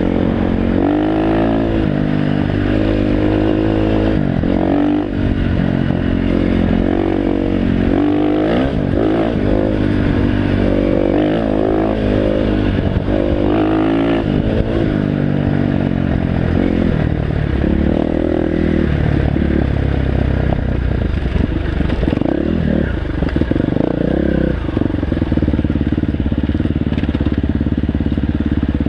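Dirt bike engine revving, its pitch rising and falling again and again as the throttle is worked, and holding steadier in the last stretch.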